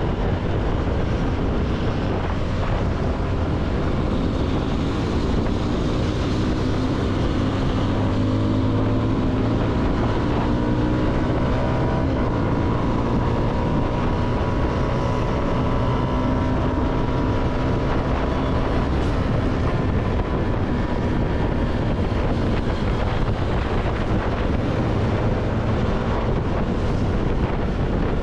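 CFMoto motorcycle engine running while riding, its pitch drifting gently up and down with the throttle, under steady wind noise on the microphone.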